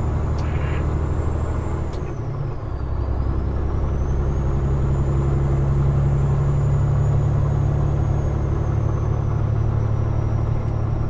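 Peterbilt 389 glider's diesel engine running while driving, heard from inside the cab: a steady low drone that dips briefly about two seconds in. A faint high whine falls and then rises again.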